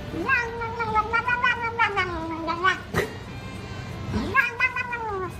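A cat yowling in two long, drawn-out meows, the first lasting over two seconds and the second shorter and falling in pitch, with a sharp click between them.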